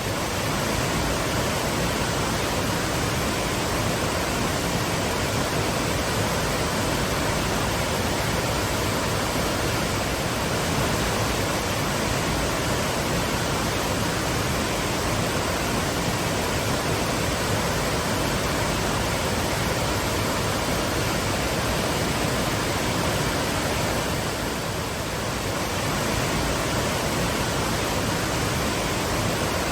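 Waterfall pouring steadily, an even full rush of falling water with no other sounds.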